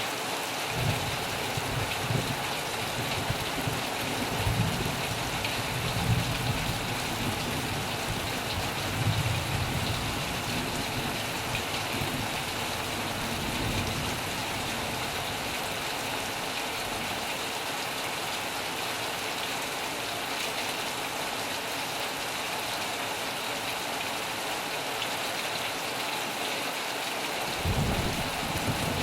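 Heavy rain falling steadily, with low rumbles of thunder that come and go through the first half and return near the end.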